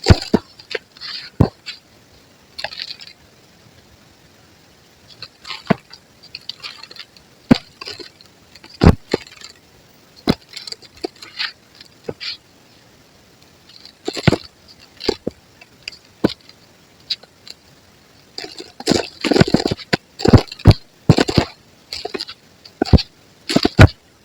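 Soft white crumbly concrete being crushed and crumbled: irregular sharp crunches and cracks with pauses between them, coming thick and fast in the last five seconds.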